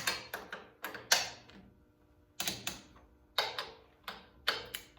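Click-type torque wrench clicking as the cylinder-head bolts are rechecked at 30 ft-lb, a sharp metallic click, mostly in pairs, every second or so as each bolt reaches torque.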